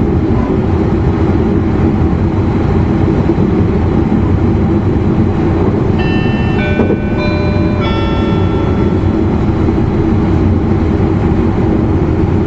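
E259 series Narita Express car running at speed, a steady low rumble of wheels and motors. About six seconds in, a short chime of stepped notes in two phrases sounds over it, the signal before the onboard announcement.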